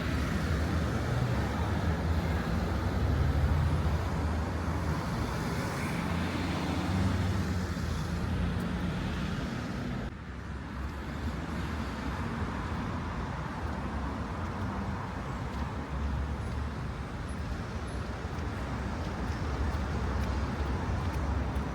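City road traffic: cars and other motor vehicles running past in a steady low rumble with tyre noise. It is louder in the first half and eases a little about halfway through.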